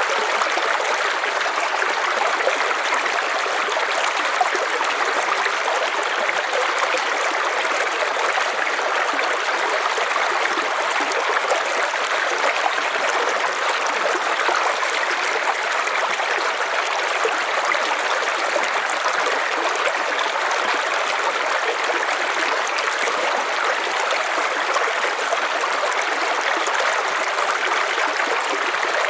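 River water flowing steadily over rocks, an even rushing and trickling with no breaks.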